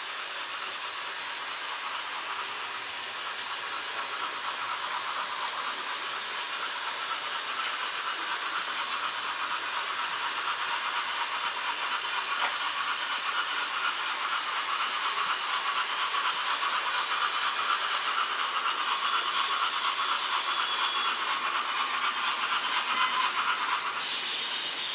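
H0-scale model trains running on the layout: a steady rattle of small metal wheels on the track that grows louder as a train draws near, then eases off near the end.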